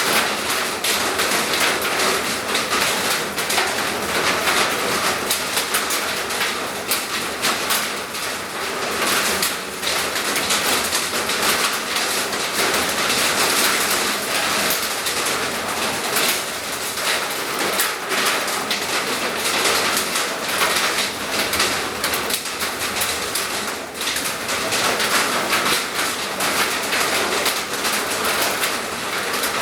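Heavy rain falling: a loud, steady wash of noise full of many small sharp hits.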